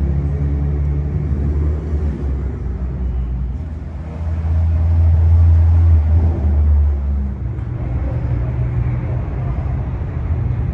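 A car engine running at low speed, getting louder from about four seconds in and easing off again a few seconds later, as a car passes or pulls in close.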